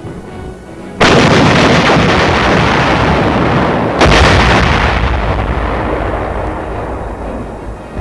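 Artillery blasts: two heavy booms about three seconds apart, each trailing off in a long rumble.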